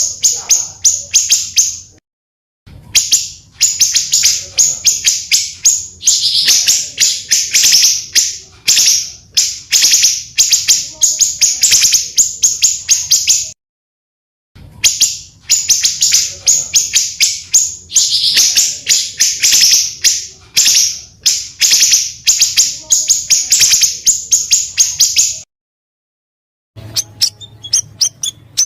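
Small songbirds singing long, fast runs of sharp, high chirping notes, pulsing about three to four times a second. The runs are broken by abrupt silent gaps: a spliced compilation of rough 'tembakan' (burst) song used as master audio for caged birds.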